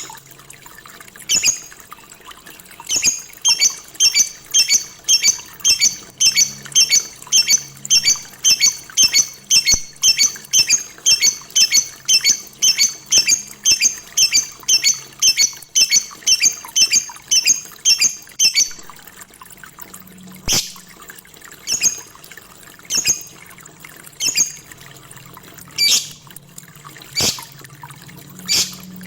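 Lovebird chirping in a fast, even run of short, shrill calls, about two and a half a second, that breaks off about two-thirds of the way through into single calls about a second apart.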